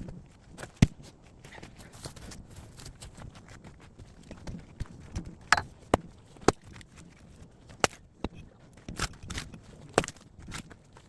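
Sharp wooden knocks and clatter of firewood at irregular intervals, the loudest about a second in.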